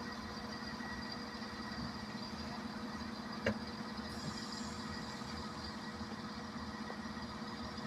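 Steady rainfall hissing, with a steady low hum underneath and a single sharp click about three and a half seconds in.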